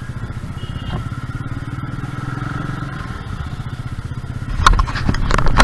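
Royal Enfield Meteor 350's single-cylinder engine running with an even, low pulse. Near the end a louder burst of knocks and clatter.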